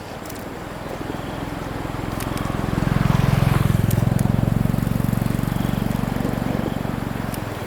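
A motor vehicle's engine going by, growing louder to a peak about three seconds in, then slowly fading.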